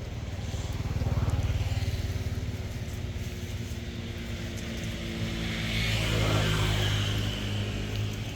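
An engine running steadily, swelling louder about a second in and again around six seconds.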